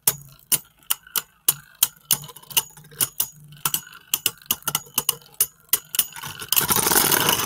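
Two Beyblade Burst tops spinning in a plastic stadium, their plastic parts clicking against each other about three times a second. Near the end comes a louder, continuous clattering rattle as they clash hard.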